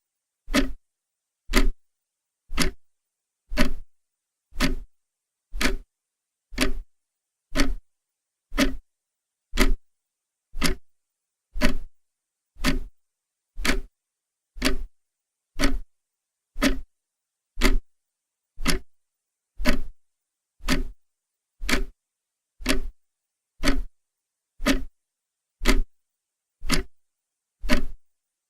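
Clock ticking steadily, one sharp tick each second with silence between ticks.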